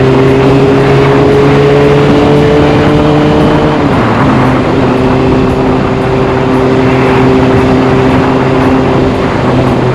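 Kawasaki Ninja ZX-6R inline-four with a carbon fibre Delkevic aftermarket exhaust, running steadily under way with road and wind noise over it; its note drops in pitch once about four seconds in, then holds.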